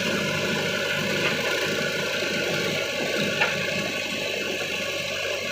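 Heavy diesel engine running steadily, with a single sharp knock about three and a half seconds in.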